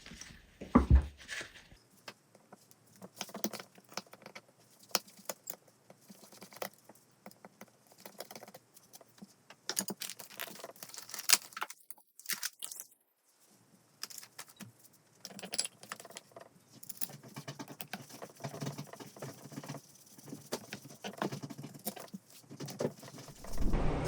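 Scattered light clicks and clinks of small metal parts and tools being handled while carburettor jets are fitted, with a brief silent gap about halfway through.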